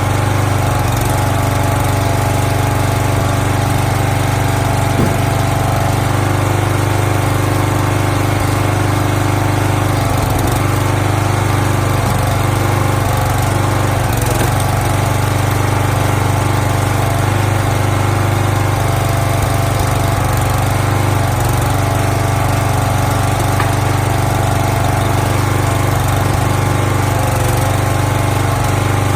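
Small gasoline engine of a log splitter running steadily.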